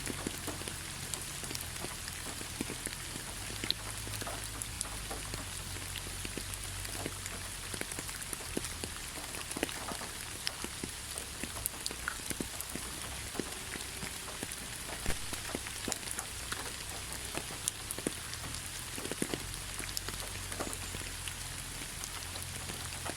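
Steady rain falling, with a constant hiss and many separate drops pattering on a surface, over a low rumble.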